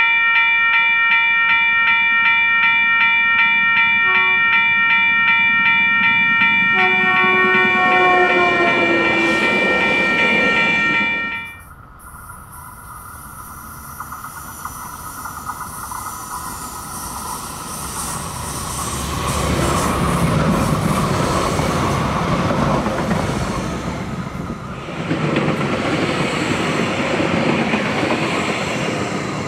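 A railroad grade-crossing warning bell ringing rapidly and steadily, with a train horn sounding briefly about seven seconds in, falling slightly in pitch. It cuts off suddenly, and a Siemens Desiro diesel multiple unit approaches and passes close by, its diesel engine and wheels on the rails growing into a loud rumble.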